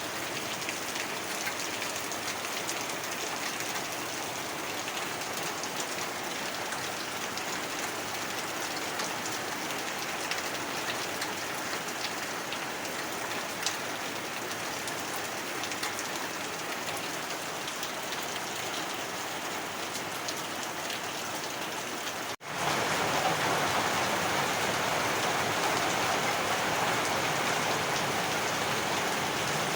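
Heavy rain falling in a steady, dense hiss. About three quarters of the way through it cuts out for an instant, then comes back louder.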